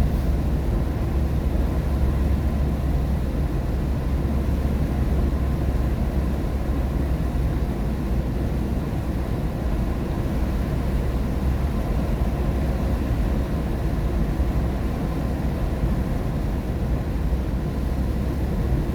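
Steady road noise inside a car driving in the rain: tyres on a wet highway and rain on the car, over a deep, even rumble.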